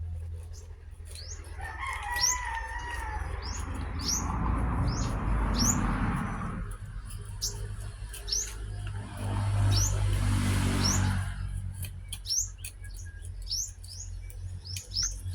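Small birds chirping over and over, each a short quick rising chirp, over a low rumble with a broad rushing noise that swells up twice, about four and nine seconds in.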